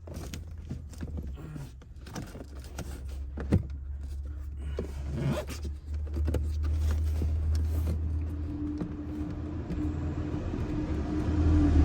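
Hands pushing rear seatbelt parts into place in a car's interior: scattered clicks and scrapes, with one sharp knock about three and a half seconds in, over a steady low hum. A steady whine joins about two thirds of the way through.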